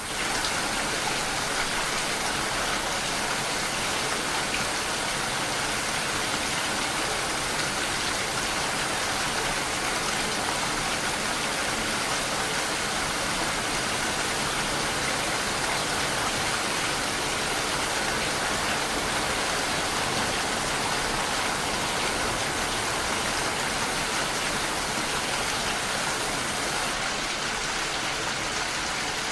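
Steady rainfall: an even, unbroken hiss of rain falling on a surface.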